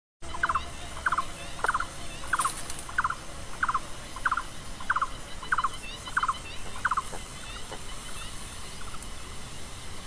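Bird calling: a short, clipped double note repeated about every 0.6 seconds, fading after about seven seconds.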